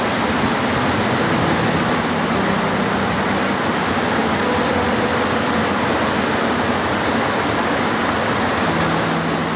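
Steady rain falling, an even wash of noise that keeps the same level throughout, with a faint low hum under it that comes and goes.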